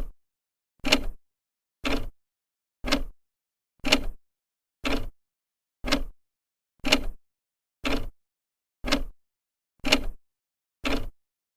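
Old clock's second hand ticking steadily once a second, each tick short and sharp with silence between.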